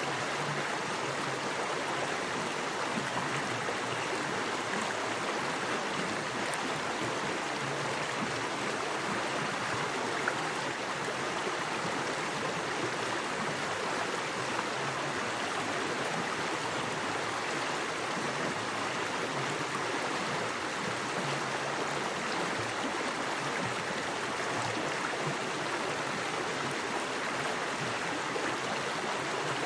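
Small woodland creek running fast over rocks: a steady, even rush of water.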